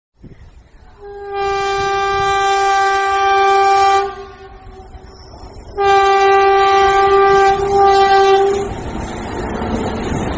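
Train horn sounding two long, steady blasts of about three seconds each, over the rumble of a running train that carries on alone after the second blast.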